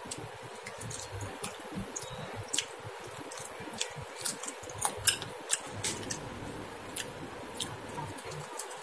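Close-up chewing and wet mouth sounds of a man eating a curried chicken leg piece off the bone by hand, with many small sharp clicks and smacks scattered irregularly, the loudest about five seconds in.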